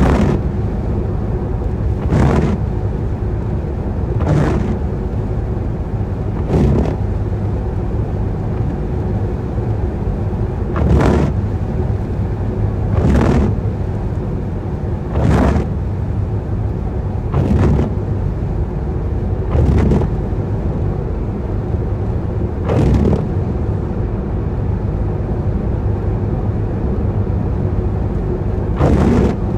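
Car driving in rain, heard from inside: steady low road and tyre rumble, with a windscreen wiper swishing across the glass about every two seconds.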